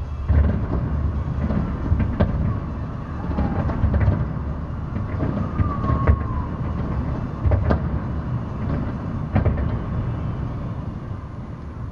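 Fireworks display bursting: a continuous low rumble of shell explosions with sharp bangs every second or two, dying away near the end as the display finishes.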